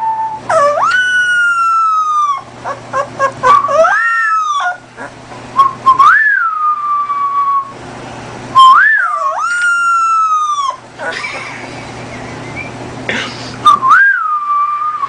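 A dog giving a series of long, high-pitched whining howls, about five of them. Each one swoops up and then holds or slowly sags in pitch, with short clicks between them.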